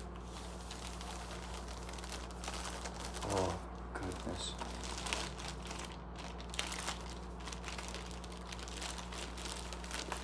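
Packaging crinkling and rustling in irregular bursts as a synthesizer is unwrapped and lifted from its box, over a steady low hum. A short murmur of voice comes about three seconds in.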